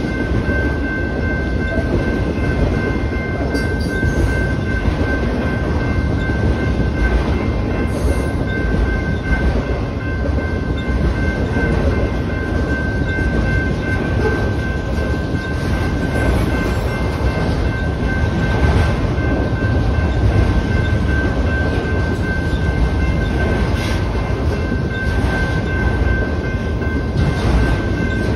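Freight train of autorack cars rolling past at a steady speed: a continuous rumble and clatter of steel wheels on the rails, with a thin, steady high-pitched tone running over it.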